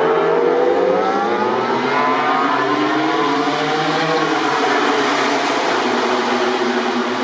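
A MotoGP racing motorcycle's four-cylinder engine revving hard. Its pitch climbs steadily as it accelerates over the first couple of seconds, then it holds a dense, high-revving run.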